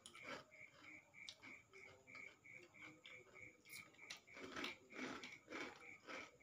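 Faint chewing and biting of fried sempol, the chewing strokes loudest about four to six seconds in. Under it, a faint high-pitched pulse repeats about three times a second.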